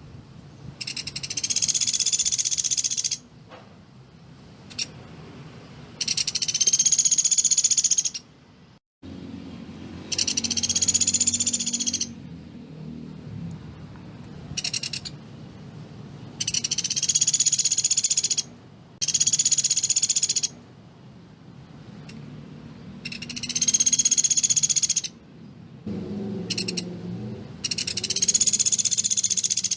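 A pelatuk beras woodpecker giving rapid-fire, high-pitched rattling trills, about two seconds each, repeated roughly every four seconds. A few much shorter bursts come between them.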